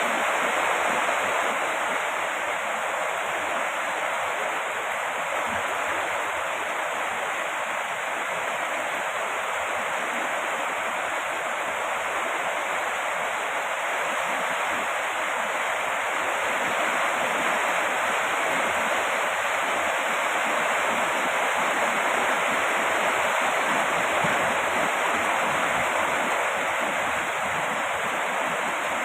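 Heavy rain falling steadily, an even hiss with no thunder or other sounds standing out.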